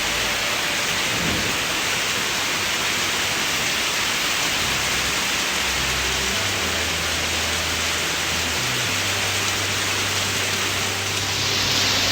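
Heavy rain falling steadily, with a low rumble underneath. The rain grows louder and hissier near the end.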